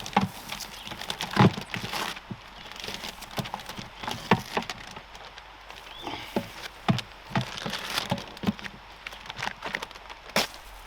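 Irregular knocks and taps, one to three a second, over a faint steady background.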